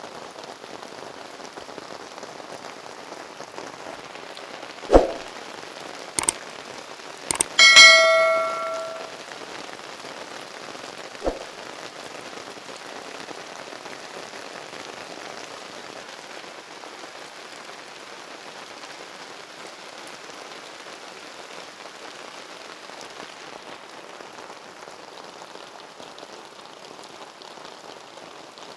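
Steady rain falling. A few sharp knocks come about five to seven seconds in, then a loud metallic clang that rings on for about a second, and one more knock a few seconds later.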